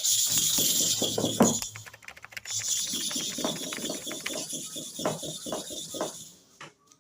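Rapid back-and-forth scrubbing on a sharpening stone, in two bouts with a short break about two and a half seconds in, fading out near the end.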